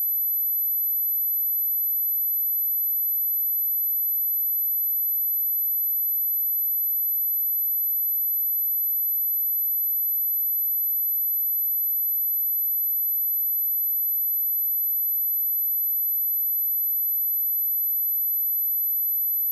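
A pure sine-wave test tone at 11984 Hz, a single high-pitched steady whine at constant level, played to test a speaker and shake water and dust out of it.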